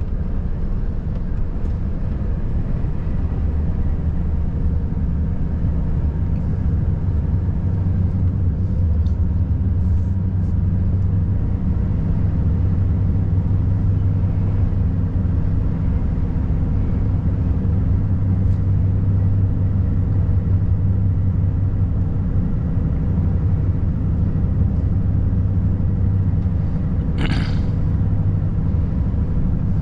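Volvo FH540 truck's 13-litre straight-six diesel running steadily under way, a deep even drone with road rumble. A brief hiss sounds once near the end.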